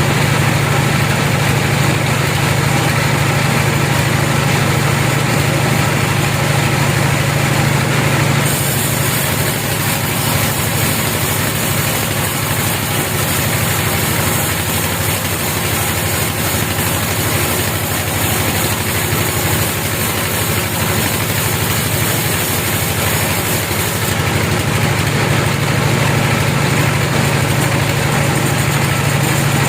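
Engine-driven log saw running steadily with a strong low hum. A brighter hiss joins about nine seconds in and fades about six seconds before the end.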